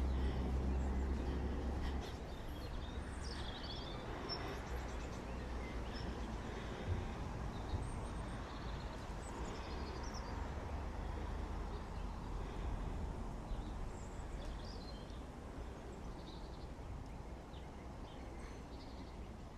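Outdoor ambience: small birds chirping here and there over a low steady rumble, the rumble heaviest in the first couple of seconds.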